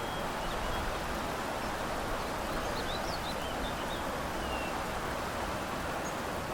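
Steady outdoor background hiss of field ambience, with faint, brief high bird chirps scattered through the first two-thirds.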